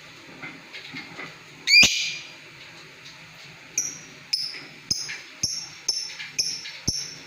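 Lovebird calling: one loud, sharp squawk about two seconds in, then a run of high chirps, each dropping in pitch, about two a second from about four seconds in.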